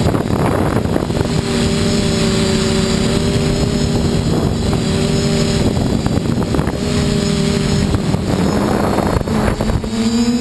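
TBS Discovery FPV quadcopter in flight: wind rush and motor noise, with a steady low droning hum coming in about a second in and dropping out briefly three times. This is the unexplained noise that appears only at full throttle in the air, not at full throttle on the ground.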